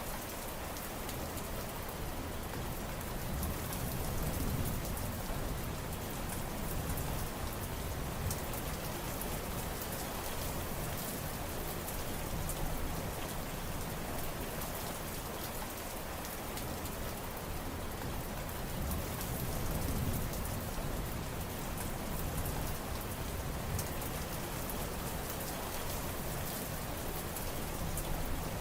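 Steady heavy rain falling on surfaces, a dense hiss with fine drop patter on top and slow swells in its low rumble.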